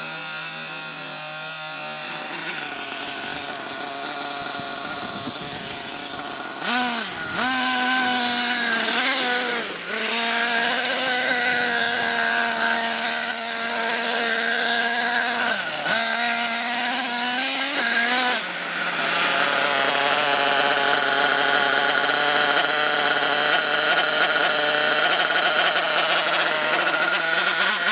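Nitro RC monster truck engine running: a steady lower idle-like buzz at first, then from about seven seconds in a loud, high-revving buzz with several brief drops and recoveries in pitch as the throttle is let off and opened again.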